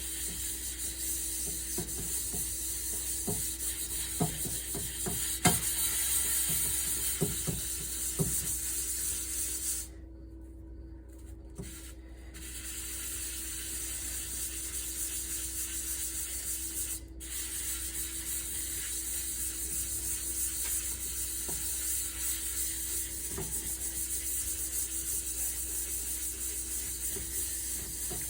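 Dishwashing at a sink: a steady hiss of water spraying, with scrubbing and a few knocks of dishes in the first part. The hiss stops for about two seconds roughly a third of the way through, then starts again.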